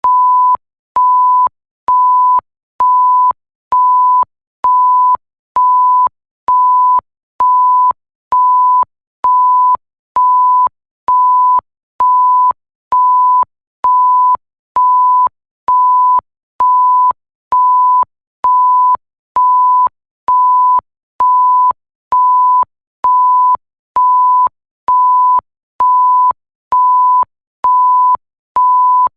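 Electronic bleep: a steady tone near 1 kHz, repeated about once a second in even half-second beeps, with a faint click as each beep starts and stops.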